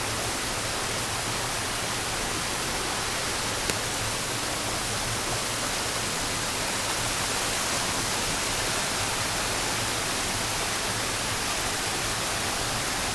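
Waterfall: a steady, even rush of falling water, with a single faint tick about four seconds in.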